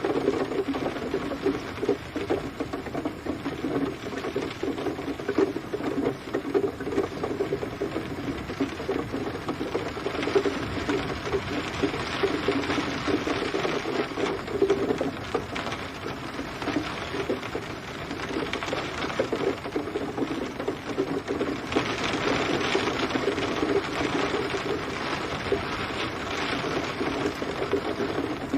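Steady rain pattering on a surface, a dense crackle of many drops. The higher part of the patter grows brighter about 22 seconds in.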